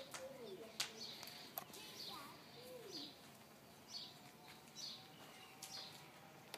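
Faint, short bird chirps repeating about once a second, with a couple of sharp clicks in the first two seconds.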